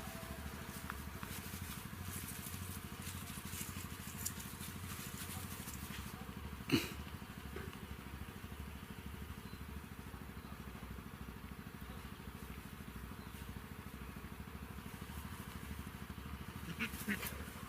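Cat purring, a steady low pulsing hum, with a few faint clicks and one sharp knock about seven seconds in.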